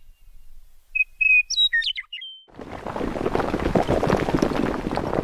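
A songbird sings a short phrase of clear whistled notes and quick chirps about a second in. Then, from about two and a half seconds, a dense crackling and rumbling of crumbling stone takes over: a sound effect of lettering breaking out of concrete.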